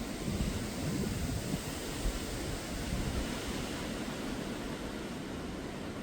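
Wind blowing: a steady rushing noise with gusty rumbling low down.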